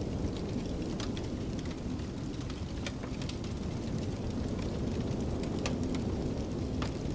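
Wood fire crackling with irregular sharp pops over a steady low rumble of snowstorm wind, with a faint howl that slowly rises and falls in pitch.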